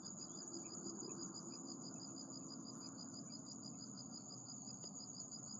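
Insect chirping in a steady, rapid trill: two high tones pulsing about five times a second without a break, over a faint low background hiss.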